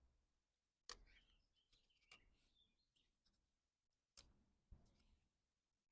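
Near silence broken by a few faint, sharp clicks and light taps of small cut-silver coin jigsaw pieces being handled and fitted together.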